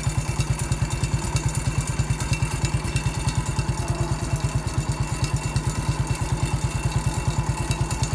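Massey Ferguson MF 14 garden tractor's engine running steadily as it drives along, with an even low pulse of about eight to nine beats a second.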